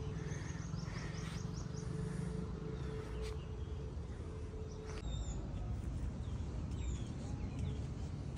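Birds calling outdoors: a quick run of high chirps in the first second or so, then short falling calls repeated through the second half. A low steady rumble runs underneath throughout.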